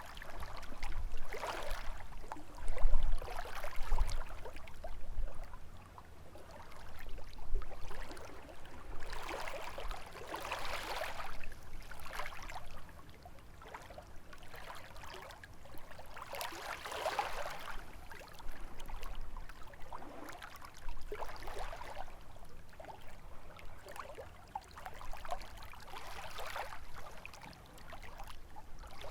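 Small lake waves lapping and splashing against the shore, each wash swelling and fading every few seconds, with a low rumble of wind in the first few seconds.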